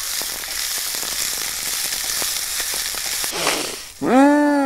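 Finely chopped onion sizzling in hot oil in a frying pan, softening as it is stirred with a wooden spoon, with faint small scrapes and taps. The sizzle stops about four seconds in, and a voice says a long "Mmm" at the end.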